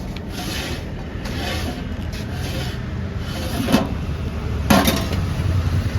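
Repeated scraping strokes, roughly one a second, with two sharper scrapes near the end, over a steady low rumble of road traffic.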